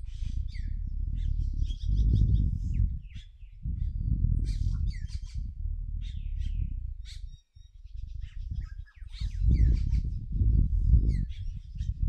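Many short, high chirps and calls of forest birds, over a loud low rumble that swells and drops in gusts and briefly dies away twice past the middle.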